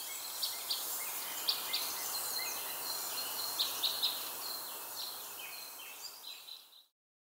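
Birds chirping over a steady outdoor hiss, with many short, quick chirps; it fades gradually and cuts to silence near the end.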